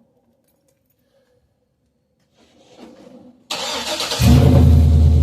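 Truck engine being started: the starter cranks briefly about three and a half seconds in, then the engine catches and keeps running loudly and steadily.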